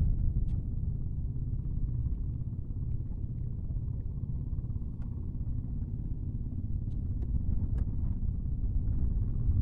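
Strong wind buffeting the microphone: a steady low rumble, with a few faint clicks.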